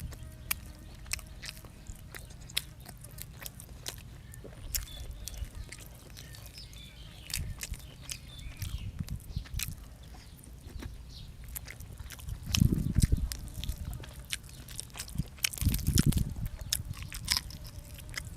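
A person chewing and biting food close to the microphone, with many small wet mouth clicks and crunches. There are two louder low swells, about twelve and sixteen seconds in.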